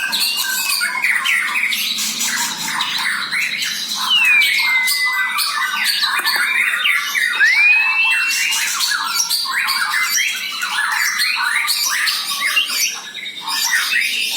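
White-rumped shama (murai batu) singing continuously: a fast, varied run of chattering notes broken by clear whistled glides, one falling about four seconds in and one rising about halfway through.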